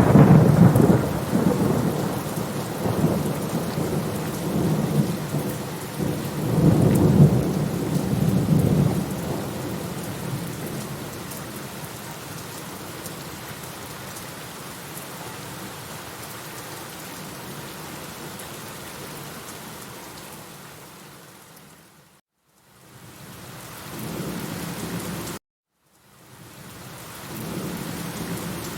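Rolling thunder rumbling over steady rain, swelling again a few seconds in and then dying away to the rain alone. Near the end the sound fades out and drops out completely twice for about a second each time, then the rain and a low rumble come back.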